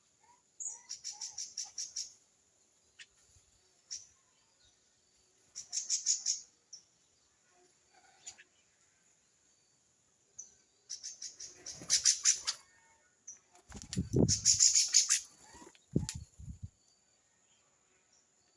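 Small birds at a feeding tray calling in four bursts of fast, high chattering notes, each lasting about a second, with a couple of low thuds near the end. A faint steady high tone sits underneath.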